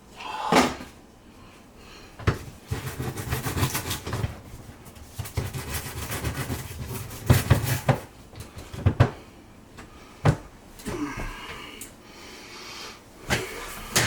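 Irregular knocks and clatters with scuffing and rubbing in between: hands working on and scrubbing the inside of a dishwasher.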